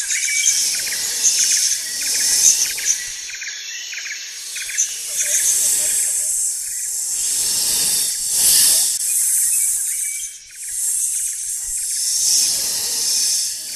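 A steady chorus of chirring insects. A breathy rushing noise swells and fades several times over it.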